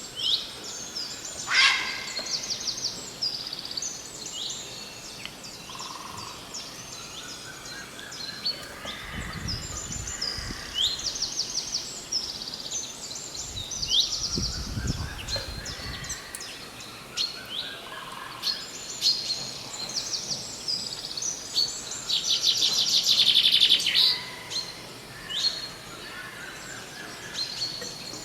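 Several small birds chirping and calling, with quick runs of repeated high notes and a louder, dense trill about 22 seconds in. Two brief low rumbles come in around 9 and 14 seconds.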